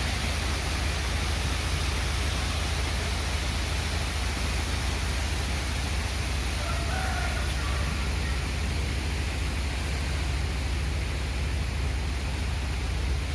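Strong wind blowing over the microphone: a steady rush with a heavy low rumble of buffeting.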